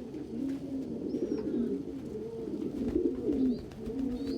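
Several domestic pigeons cooing at once, their low warbling coos overlapping without a break, with a few short high chirps near the middle and end.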